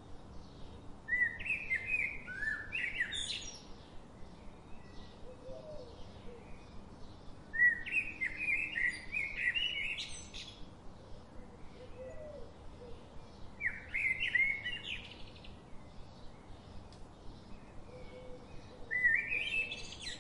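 A songbird singing short warbled phrases of rising and falling notes, four times, about six seconds apart, over a faint regular ticking about twice a second.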